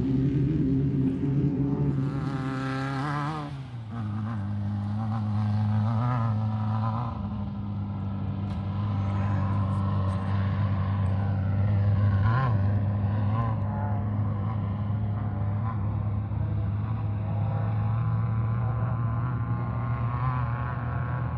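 Off-road race car engines running: a steady low engine drone, with revving that rises and falls, loudest about two to three seconds in.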